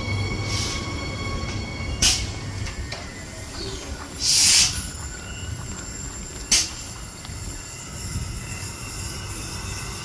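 Electric suburban passenger train at the platform, running with a steady low rumble and a thin high whine. Several short, sharp, high-pitched bursts stand out, the longest about halfway through.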